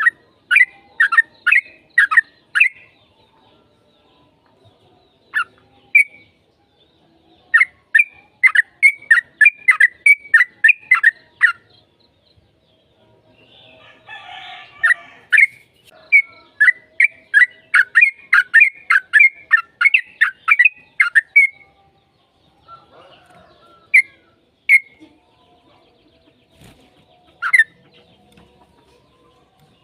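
Yellow-vented bulbul (trucukan) calling in long, rapid runs of sharp, falling chattering notes, with short pauses between runs and a few single notes near the end.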